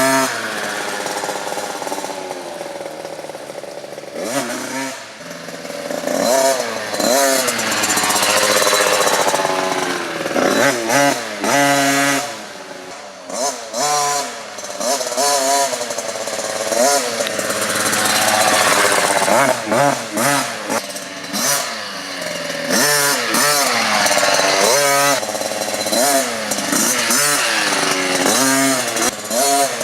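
KTM 50 SX mini dirt bike's two-stroke single-cylinder engine revving up and down repeatedly as it is ridden, its pitch rising and falling many times, dropping quieter for a few seconds about halfway through.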